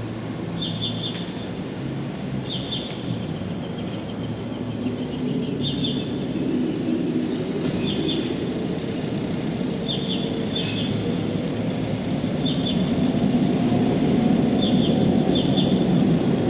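A bird calling over and over in short, high, falling chirps every second or two, over a steady low rumble that grows louder toward the end.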